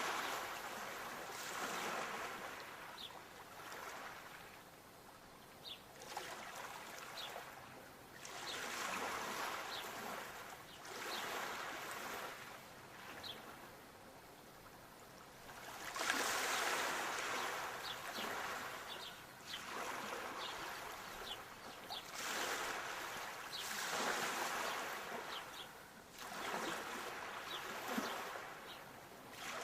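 Sea waves washing in, swelling and falling away in surges every two to three seconds, with faint high ticks between them.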